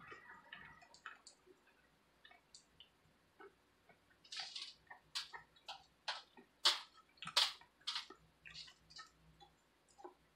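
Close-miked chewing of pan-fried ramen noodles: quiet, scattered sharp mouth clicks and smacks, thickest in the second half.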